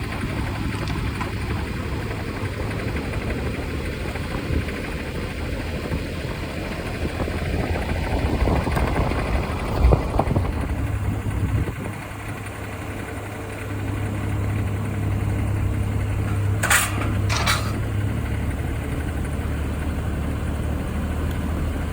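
Daihatsu Move Canbus engine running steadily, with its pitch rising about eight to ten seconds in. Two sharp clicks come close together about seventeen seconds in.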